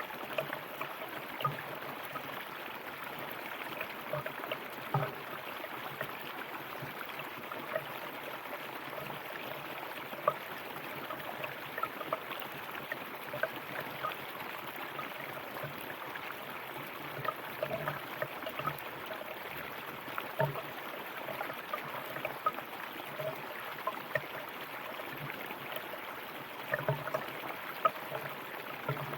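River water flowing over rocks: a steady rush with frequent small irregular splashes and gurgles.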